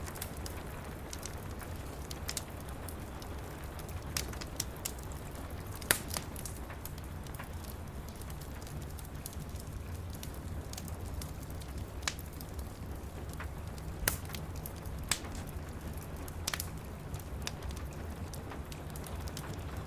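Wood fire crackling, with sharp pops at irregular intervals, the loudest about six seconds in, over a steady low rumble and a soft hiss of rain.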